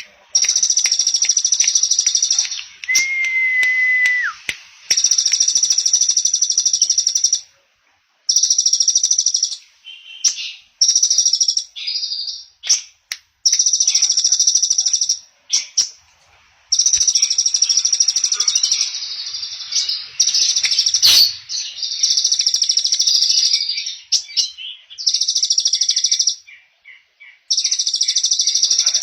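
A small songbird singing long, very fast, buzzy high trills, in bursts of one to three seconds with short breaks between them. A single clear whistle comes a few seconds in, and a sharp click about two-thirds of the way through.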